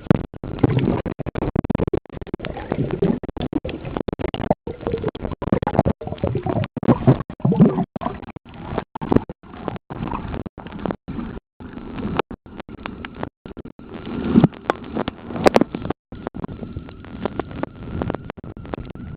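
Muffled, irregular water sloshing and handling noise picked up by a compact camera sealed in a waterproof pouch, surging unevenly and dropping out briefly again and again.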